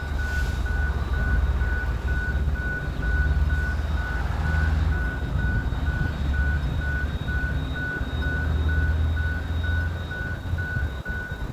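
Diesel locomotive engine running with a steady low rumble. Over it, an electronic tone beeps evenly about three times a second.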